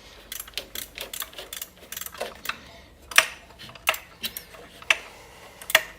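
Irregular metallic clicks and clinks of hand tools and parts being handled while a new belt tensioner is fitted into a cramped engine bay; the sharpest clinks come in the second half.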